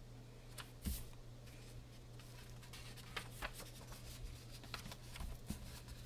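Faint rustling and light taps of coloring book pages being handled and turned, over a low steady hum.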